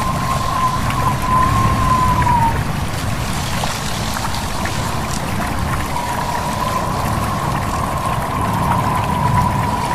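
A babbling stream and gusting wind, with a steady low rumble under a broad rushing hiss. A thin, faintly wavering whistle-like tone sounds over it for the first two seconds or so and comes back about six seconds in.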